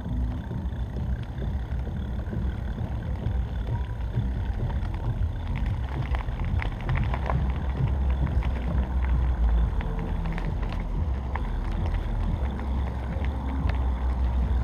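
Riding an e-bike: a steady low rumble of wind on the microphone and tyres on the ground, with scattered small rattles and clicks.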